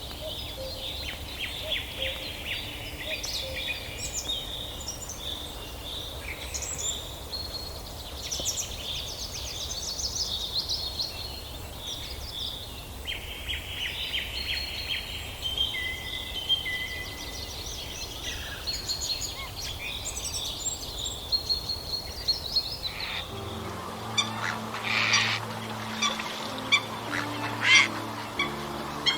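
Many songbirds singing and chirping together, with rapid trills and whistled phrases over a low steady background rumble. About 23 seconds in the recording changes: louder, sharper calls of waterfowl such as ducks and geese take over, with low held tones beneath them.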